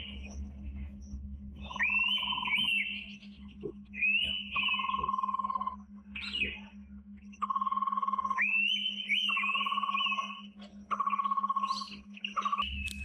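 Indian pitta calling: clear whistled calls repeated every second or two, with rising high whistles and level lower notes. A steady low hum runs underneath.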